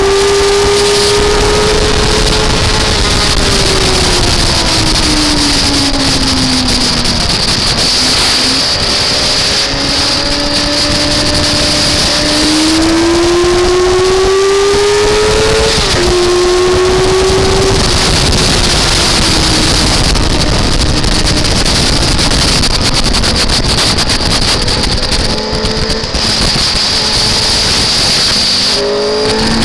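Car engine running hard on a race track, its pitch climbing under acceleration, dropping sharply at an upshift about sixteen seconds in, and sliding down while slowing for corners, over a steady rush of wind and tyre noise.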